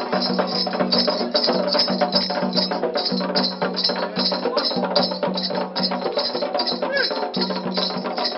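Candomblé ritual percussion music: drums with a bell or shaker keeping a steady, fast beat of about three strokes a second.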